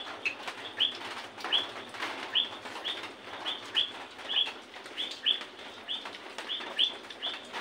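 A bird chirping over and over, short high chirps about three a second.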